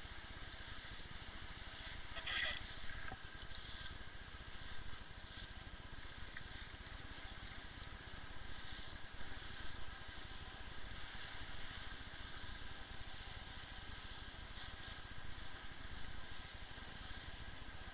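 Motorboat under way: its engine running steadily under a constant hiss of water and wind.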